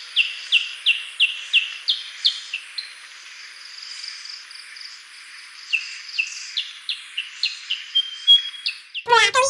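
Small songbirds chirping: runs of short, quickly falling chirps, about three a second, with a pause of a few seconds between the runs and a steady hiss beneath. A sung voice comes in near the end.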